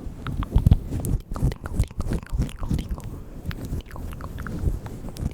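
Close-up ASMR mouth sounds made right at the microphone: a quick, irregular run of wet clicks and smacks.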